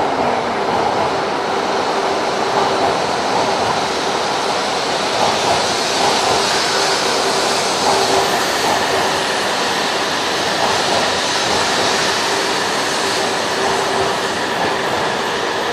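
Tohoku Shinkansen E2-series train rolling slowly along the platform as it pulls into the station: a steady rush of wheels and air with a faint steady hum under it.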